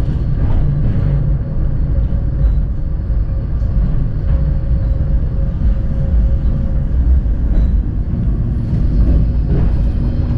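Tram running along the track: a steady low rumble of wheels on rails with a steady motor whine over it and a few faint clicks.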